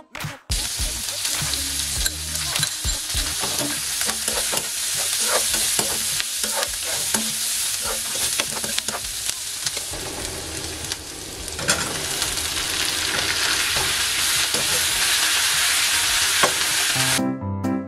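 Onions and whole spices sizzling in hot oil in a steel kadai, stirred and scraped with a metal spatula, which clicks and scrapes against the pan. Piano music comes in near the end.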